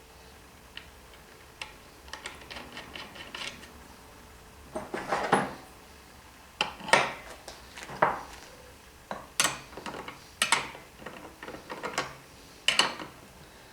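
Parts being handled and fitted by hand at a workbench: irregular knocks, clicks and short rattles of hard pieces being set down, slid and turned. The louder knocks come about once a second in the second half.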